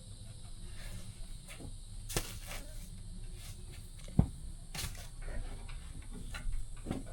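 Scattered scrapes and knocks of chore work in a livestock pen, with one sharp thump about four seconds in, over a low steady rumble.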